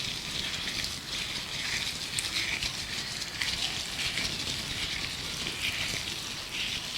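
Gloved hands rubbing and crinkling, a steady uneven crackly rustle, with birdsong in the background.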